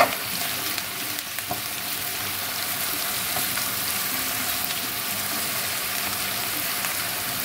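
Floured chicken pieces sizzling steadily in hot olive oil in a wok, with a sharp click right at the start and a few light taps of the utensil against the pan as the pieces are spread apart.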